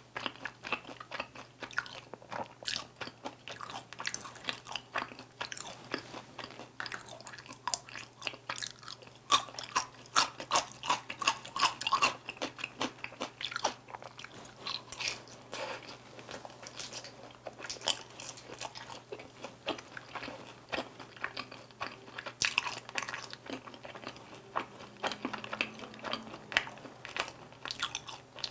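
Close-miked chewing and biting of Korean sweet-glazed fried chicken (dakgangjeong): a steady, irregular run of sharp crunches and wet mouth sounds as the crispy coated pieces are bitten and chewed.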